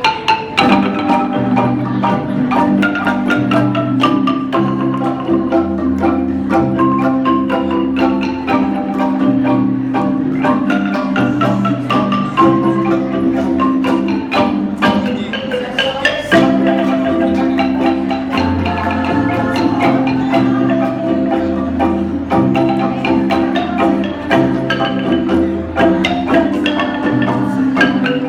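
Kolintang ensemble playing: wooden xylophones struck in quick runs over held chords and a moving bass line.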